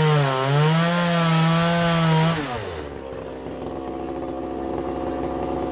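Two-stroke chainsaw running at high revs in a wood cut, its pitch wavering under load, then dropping to idle about halfway through and idling steadily.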